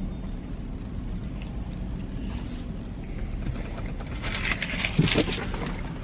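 A car heard from inside the cabin: a steady low rumble, with a cluster of clicks and rustles near the end.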